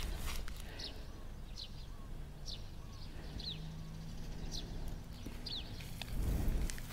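A bird repeating short, high chirps that slide downward, about one a second, over outdoor background noise, with a brief louder low rumble near the end.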